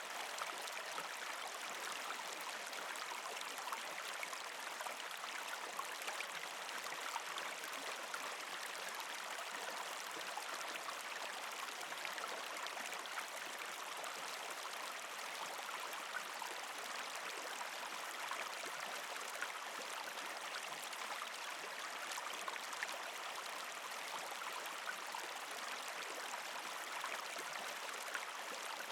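Partially frozen creek flowing over rocks: a steady rush of water with many small splashes and drips.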